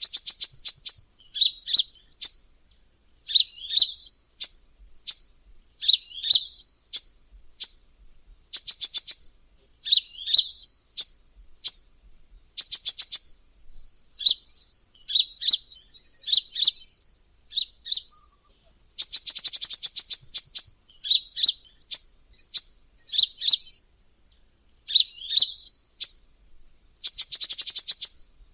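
Sunbird song played as a bird-lure recording: high, short twittering chirps repeated about every half second, broken every few seconds by a rapid trill lasting under a second.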